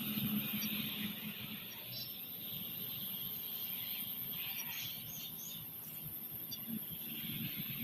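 Open-field outdoor ambience with a few faint, short bird chirps over a steady background hiss.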